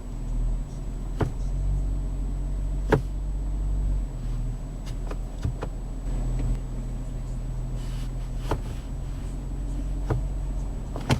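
Mercedes E350's 3.5-litre V6 idling, a steady low hum heard inside the cabin, with a few light clicks scattered through it.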